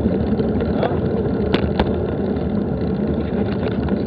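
Steady rumbling wind and ride noise on a bike-mounted action camera, with a few sharp knocks as the bicycle rolls over rough ground.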